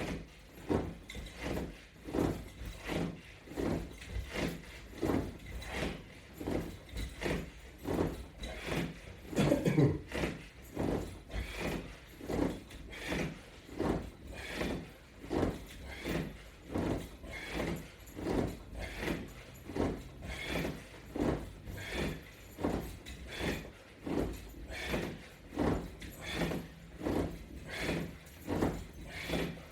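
A person breathing out hard with each repetition of resistance-band crunches, a steady rhythm of about one breath a second, with one louder breath about ten seconds in.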